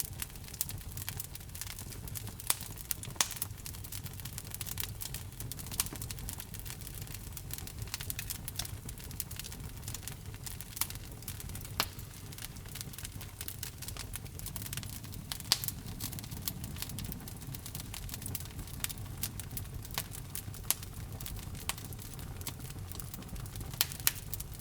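Wood fire burning in a fireplace: a steady low rumble of the flames with irregular sharp crackles and pops from the burning logs, a few of them louder.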